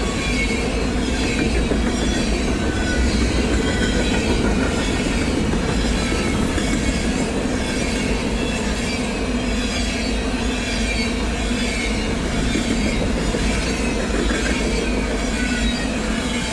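Train rolling steadily past, with the wheels squealing in wavering high tones over the steady rumble of the cars.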